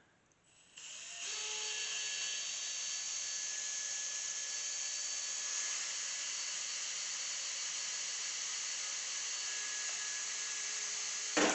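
Power drill running at high speed, drilling out a rivet in a computer case. A steady high whine starts about a second in, runs for about ten seconds and ends with a short louder burst just before it stops.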